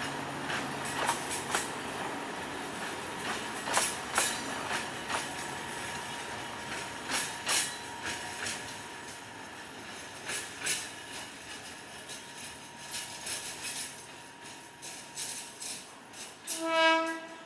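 A train running past with a steady rumble and a run of sharp, irregular clacks as its wheels cross rail joints. Near the end comes a short, loud horn blast.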